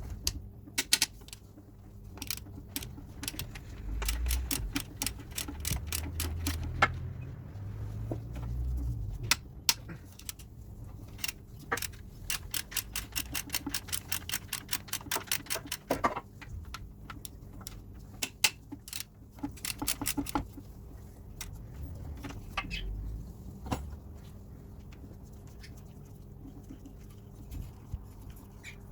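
Hand ratchet clicking in quick even runs as bolts are worked on, with scattered knocks and clatter of tools on metal.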